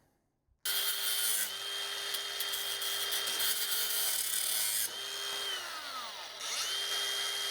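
Angle grinder with a small cut-off wheel cutting steel: it starts about half a second in and runs steadily with a whine, winds down with a falling pitch about five seconds in, then starts cutting again near the end.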